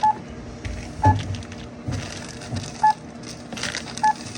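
Retail checkout barcode scanner beeping four times at irregular intervals about a second apart as items are scanned, with the clatter and rustle of goods being handled and bagged.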